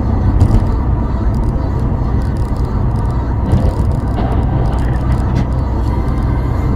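A car driving, with a steady low engine and road rumble and a few faint clicks.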